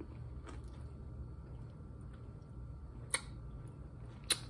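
Quiet mouth sounds of chewing boiled corn on the cob, with faint scattered clicks over a steady low room hum. Two sharper clicks stand out, about three seconds in and, louder, near the end.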